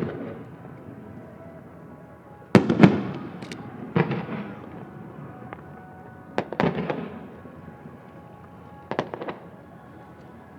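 Aerial fireworks shells bursting: a bang right at the start, then single and paired bangs every two to three seconds, the loudest about two and a half seconds in, each trailing off in a rumbling echo. Faint music plays underneath.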